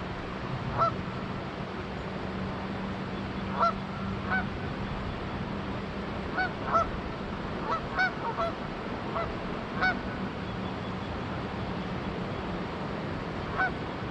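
Canada geese honking: about a dozen short, scattered honks, over the steady rush of flowing river water.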